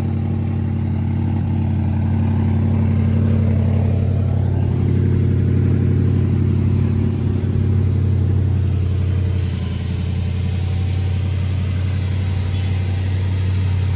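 Porsche Panamera GTS's 4.0-litre twin-turbo V8 idling steadily while warming up after a cold start; the note shifts slightly about two-thirds of the way through.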